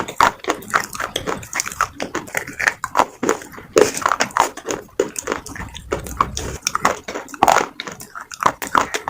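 Slate pencils being bitten and chewed close to the microphone: a quick, irregular run of sharp crunches, several a second, with short gritty grinding between the bites.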